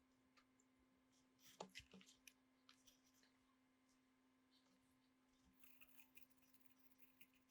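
Near silence: a faint steady hum, with a few faint clicks about a second and a half in and some faint crackling ticks near the end.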